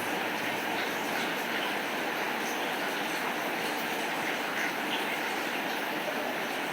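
Steady rain falling, an even hiss with a few scattered drop sounds and no thunder.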